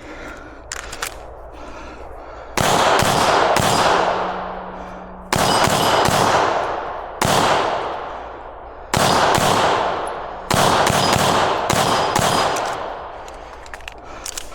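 Five loud gunshots spaced about two seconds apart, each echoing out over a second or more, with smaller sharp cracks in between and near the end.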